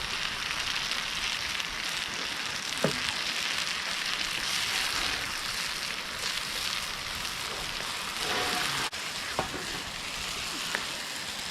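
Chicken, Parmesan and freshly poured garlic parmesan sauce sizzling steadily in a hot skillet, with a few light clicks.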